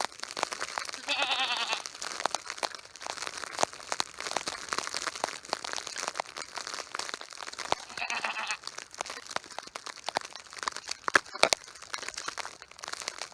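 Goats bleating twice, a short wavering call about a second in and another around eight seconds in, over steady crunching and crackling.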